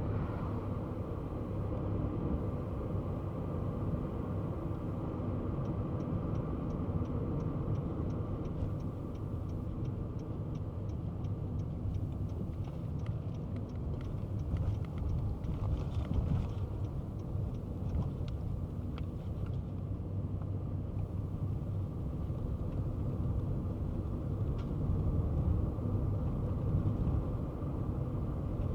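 Kei car driving, its engine and road noise making a steady rumble. For about eight seconds in the first half a faint, fast, even ticking runs over it, about three ticks a second.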